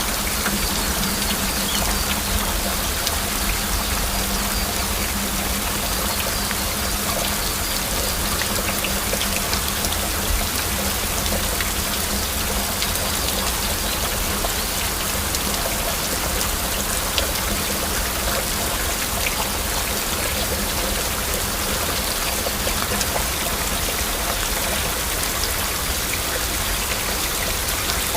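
Steady heavy rain, with individual drops ticking through.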